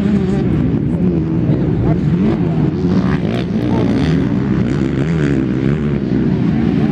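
Several 250 cc enduro motorcycles racing, their engines revving up and down with overlapping, wavering pitch.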